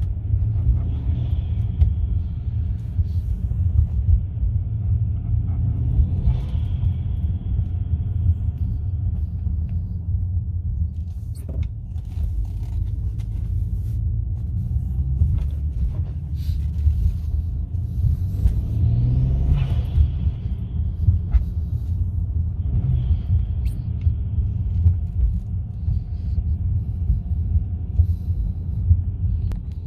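A BMW 335xi's turbocharged straight-six heard from inside the car while driving: a steady low rumble with a few short surges as it pulls harder, one about two-thirds of the way through rising in pitch. The engine has its diverter valves plugged, open air filters and a changed downpipe.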